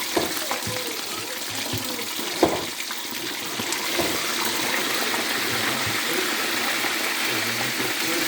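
Steady rush of running water, getting stronger about halfway through, with a sharp knock about two and a half seconds in.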